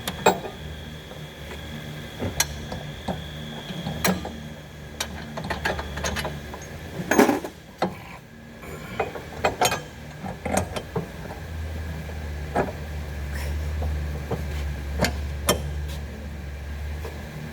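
Scattered metallic clicks and knocks of hand tools being worked and set down, over a steady low hum that grows louder about two-thirds of the way through.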